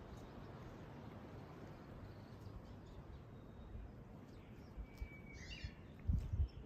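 Faint outdoor ambience with one short bird call about five seconds in, and a few soft low thumps near the end.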